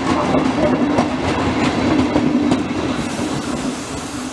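Train rolling past, its wheels clacking over rail joints, with a steady low hum underneath. It is loudest in the first half and eases slightly towards the end.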